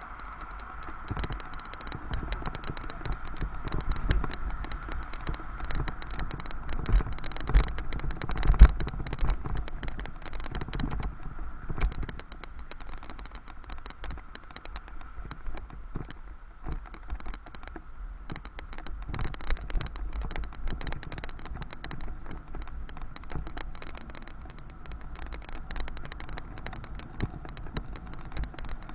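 A bicycle ride heard from the bike itself: a dense, irregular rattling and clicking as the bike rolls over the road surface, over a low rumble with a few heavier thumps about 7 to 9 seconds in.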